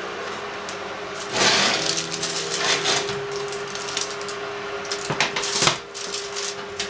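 Kitchen work: a steady hum from an appliance or small motor, with several short bursts of scraping or rustling and a few knocks. The hum stops near the end.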